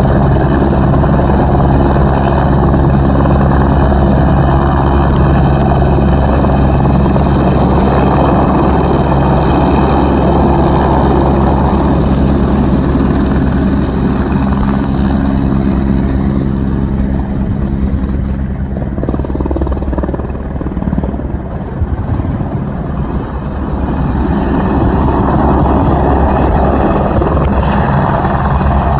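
Airbus H125 single-engine helicopter running loud and steady, its turbine and main rotor giving a low, even rotor beat. The sound eases a little about two-thirds of the way through, then builds again.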